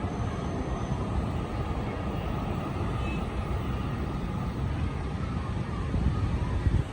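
Steady low jet rumble of an arriving Airbus A350-900, its Rolls-Royce Trent XWB engines heard as a dense noise that swells a little near the end, then drops off sharply.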